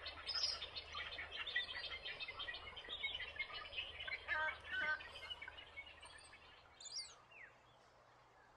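Many small birds chirping rapidly together, thinning out after about five seconds, with a few sharper calls, one sliding down in pitch, near seven seconds, before it fades.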